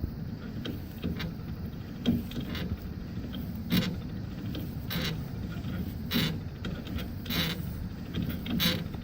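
Newly installed bearing turning with a steady low rumble and a sharp scraping click that repeats regularly, about once every second and a quarter, from about a third of the way in. The noise persists after the bearing was replaced.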